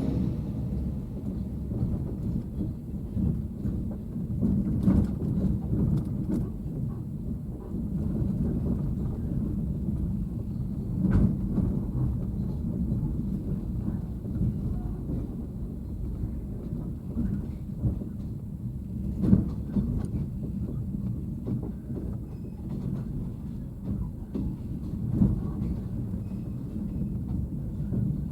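Sleeper train under way: a steady low rumble of the running train, with a few sharp knocks and jolts scattered through it.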